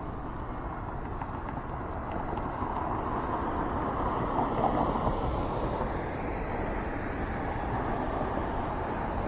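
Traffic passing on a wet road: tyre hiss swelling to a peak about halfway through, then easing to a steady rush.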